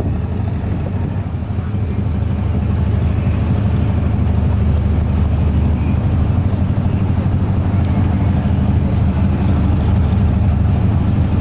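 A large engine running with a steady low drone, growing a little louder over the first few seconds.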